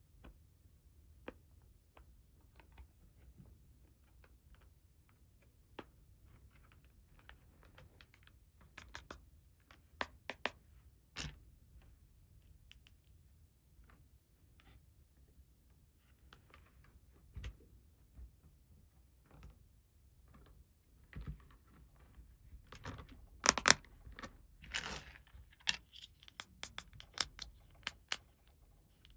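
Small plastic toy pieces and packaging handled up close: scattered light clicks and taps with some crinkling, sparse at first and then a quick, busier run of clicks and rustles in the last few seconds.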